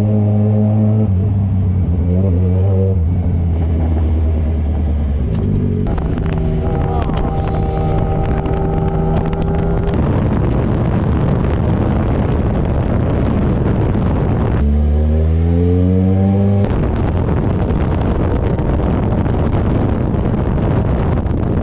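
Yamaha FZ6R inline-four motorcycle engine running on the move, in several abruptly cut segments at different steady engine speeds. Stretches of loud rushing wind noise mask the engine. About fifteen seconds in the engine revs up with a rising pitch as the bike accelerates.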